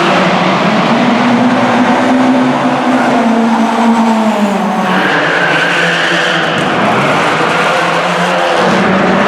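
Classic car engine worked hard on a circuit. Its pitch climbs in the first couple of seconds and drops about four seconds in, and from about five seconds in a tyre squeal joins as the car slides.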